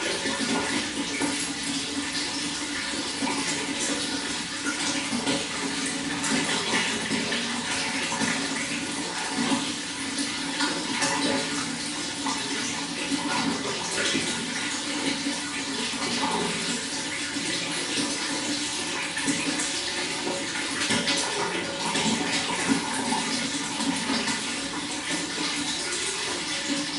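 Running water flowing steadily, an even, unbroken rush of water noise.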